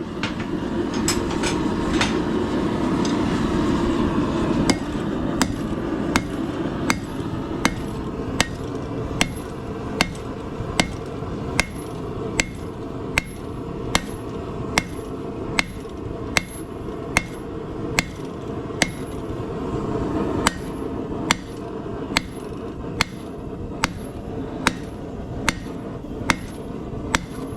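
Hand hammer striking a hot steel bar on an anvil, a little more than one blow a second with a bright ring on each strike, drawing the bar's end out thin and flat. A steady low rush of noise runs underneath.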